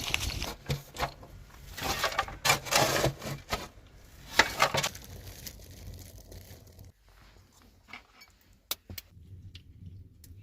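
Several bursts of rough scraping and rubbing, as of objects being handled, followed near the end by a few sharp clicks.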